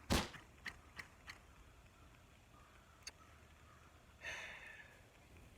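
A sharp knock, followed by a few light clicks and a short breathy hiss about four seconds in.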